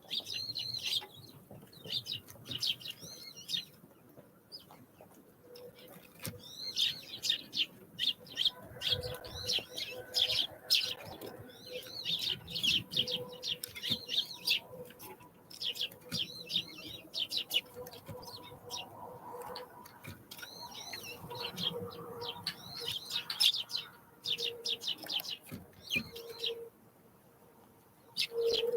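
Small wild songbirds chirping over and over in quick clusters of short, high calls, with scattered clicks among them.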